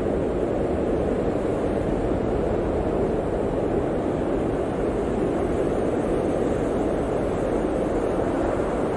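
Blizzard wind blowing steadily, a dense, even rushing noise with no single gust standing out.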